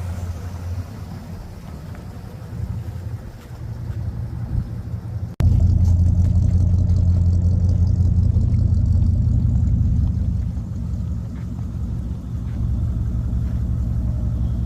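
A 1964 Ford Galaxie 500's engine running steadily with a low pitch. About five seconds in there is an abrupt cut to a louder stretch of the same steady running.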